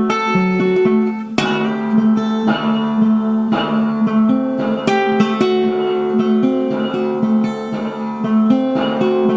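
Plucked guitar music with strummed chords, playing steadily.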